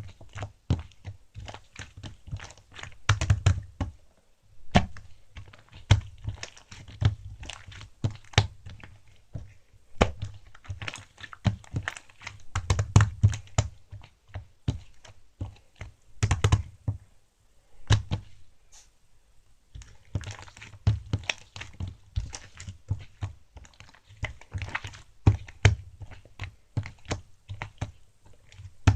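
An irregular run of short taps and clicks mixed with dull knocks, close and dry, with a brief pause about two-thirds of the way through.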